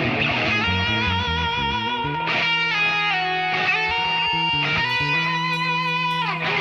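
Electric guitar playing long sustained lead notes with vibrato over a steady bass line, with a slide down near the end.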